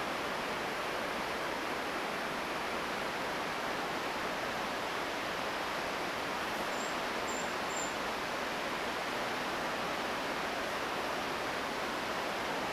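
Steady rush of falling water from a mountain waterfall or stream, an even hiss with no change. Three short high chirps sound briefly about seven seconds in.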